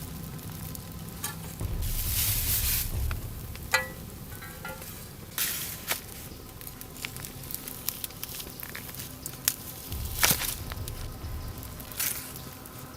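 Food sizzling as it fries in a pan over a campfire, the hiss swelling several times, with a few sharp clicks and a brief ringing tone about four seconds in.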